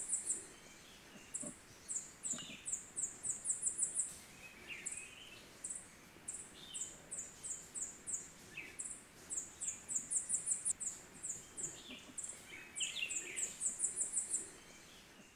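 Birds calling in a rainforest: a very high, thin note repeated in quick runs that speed up, every second or two, over softer, lower chirps.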